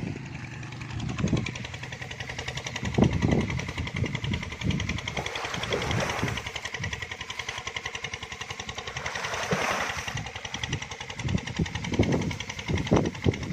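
A small engine running steadily with a fast, even beat, with a few knocks and thumps over it.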